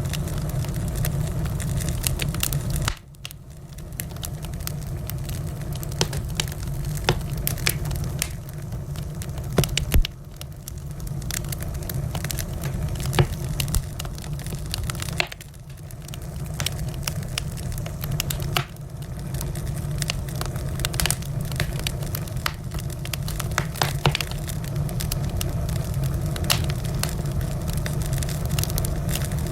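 Wood fire burning: a steady low rumble with frequent sharp crackles and a few louder pops. The rumble drops out abruptly several times and builds back up.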